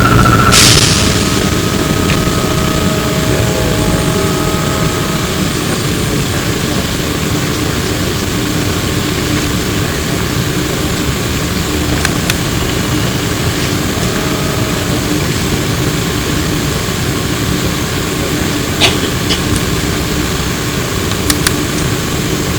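Inside an E902 Flyer trolleybus: a short, sharp hiss of air about half a second in, then the steady rumble and hum of the bus, with a few faint clicks.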